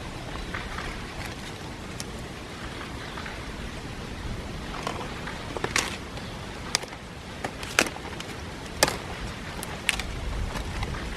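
A steady hiss with a few sharp clicks and knocks, roughly a second apart, in the second half.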